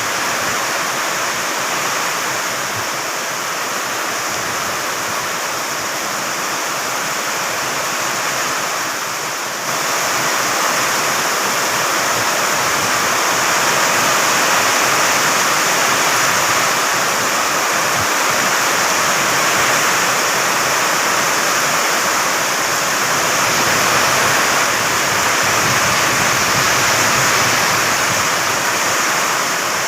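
Heavy rain pouring down steadily, a dense even hiss that gets louder about ten seconds in.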